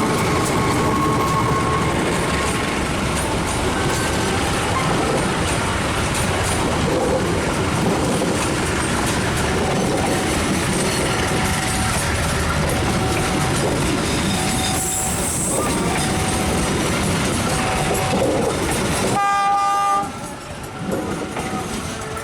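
A train passing close by, a loud steady rumble of wheels and carriages on the rails. Near the end the rumble drops off sharply and a short horn blast sounds.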